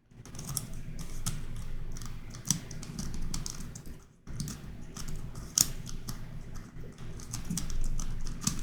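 Plastic twisty puzzle (YuXin Corner Helicopter 2x2) being turned and twisted by hand: a rapid run of small plastic clicks and clacks, with a brief pause about four seconds in.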